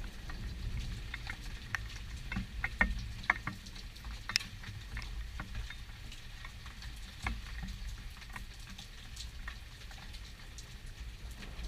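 Rain during a thunderstorm: scattered drops pattering and ticking irregularly close by, a few sharper ones about two to four seconds in, over a steady low rumble.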